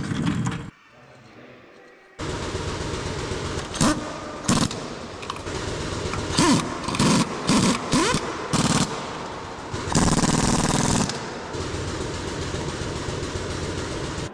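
Loud, rapid mechanical rattling starting about two seconds in, with several short louder spurts and a stretch of hiss around ten seconds in.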